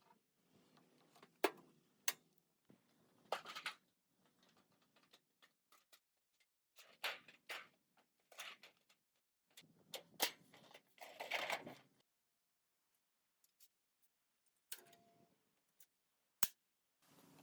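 Hand work with tools and parts: scattered sharp clicks and knocks mixed with short scraping and rustling sounds, separated by pauses.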